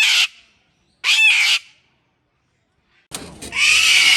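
Parrot squawking loudly: three harsh, high-pitched screeches, one at the start, one about a second in and a longer one near the end.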